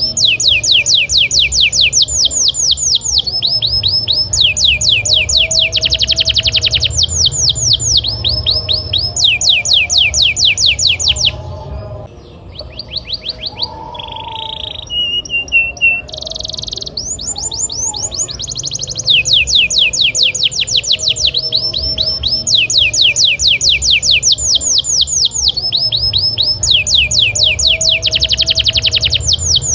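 Domestic canary singing: long fast rolls of repeated high descending notes. About halfway through there is a quieter stretch of short separate chirps and whistles, then the rolls start again.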